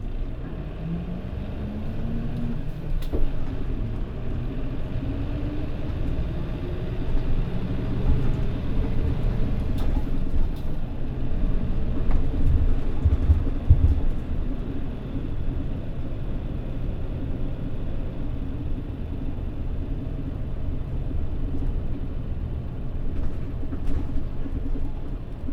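Mitsubishi Fuso Aero Star city bus (PJ-MP35JM) heard from inside the cabin while under way: the diesel engine climbs in pitch as the bus accelerates, twice in the first ten seconds, then it runs steadily with road rumble. A few low thumps come about halfway through.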